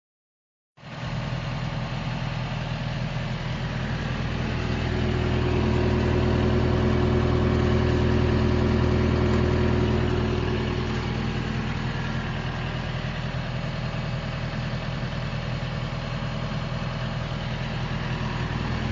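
A vehicle engine idling steadily. It cuts in abruptly about a second in and grows a little louder for a few seconds midway.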